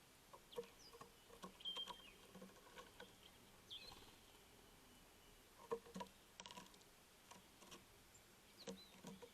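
Near silence with faint scattered taps and a few brief high chirps from small birds.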